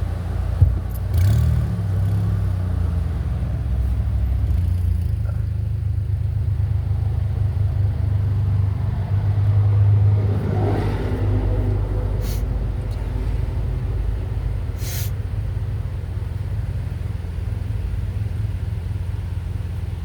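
Motor vehicle running, a steady low rumble that swells about ten seconds in, with a sharp knock near the start.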